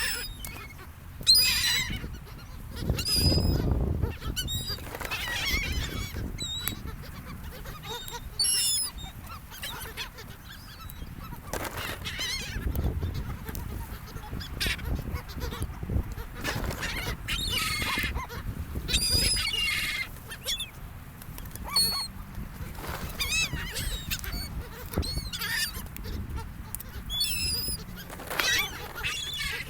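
Seagulls calling over and over, many short cries overlapping from several birds, with a low rumble underneath.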